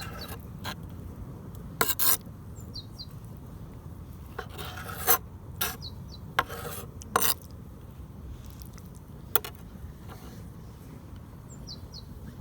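Intermittent scraping and rubbing of cooking utensils and dishes, about eight short sharp scrapes and knocks, over a steady low background rumble, with a few short high chirps.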